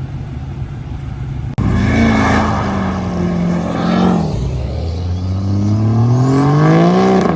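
A vehicle engine being revved. After a low rumble, the revs climb about a second and a half in, hold, and drop back near four seconds. They then climb steadily for about three seconds and stop abruptly near the end.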